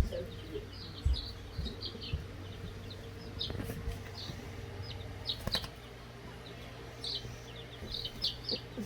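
Chicks of a green-egg-laying breed peeping: many short high chirps scattered throughout, over a low steady hum.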